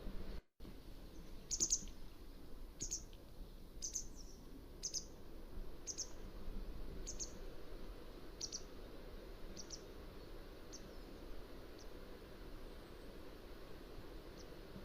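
Mountain wagtail giving a series of short, high chirps about one a second, fading toward the end. A brief dropout just after the start.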